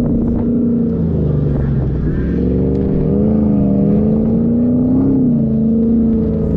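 Off-road 4x4's engine running under load, its pitch dipping and then rising again as the revs change, over a steady low rumble.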